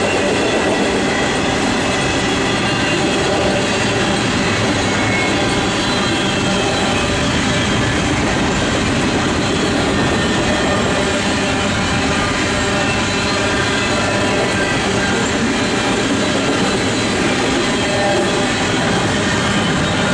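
Union Pacific double-stack container train rolling past at track speed: a steady, loud noise of steel wheels on rail and cars rattling, with no let-up.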